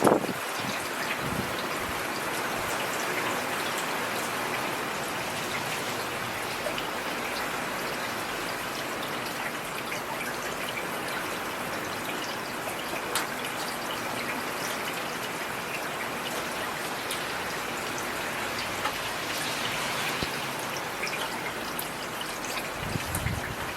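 Heavy rain falling steadily, an even hiss of rainfall with many individual drop ticks scattered through it.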